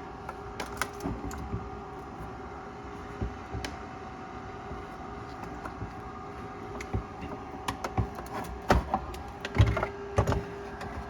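Scattered sharp clicks and knocks of hands handling parts and tools on a refrigerator, over a steady faint hum. The clicks get busier and louder in the second half.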